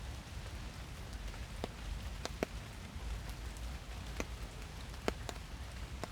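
Steady rain falling through trees, a soft even hiss with individual drops tapping close by at irregular moments, several times a second or so apart.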